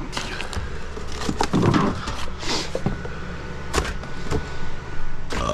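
Gear being handled and put away: irregular knocks, clatters and scrapes of objects, over a steady low hum of an idling engine.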